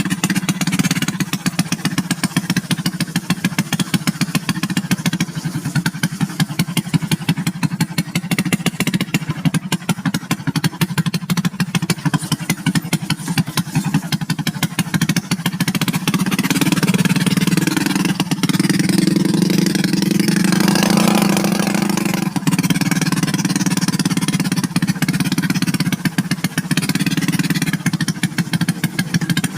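Motorcycle engine running under way. The revs rise for a few seconds past the middle, then drop back to a steady run.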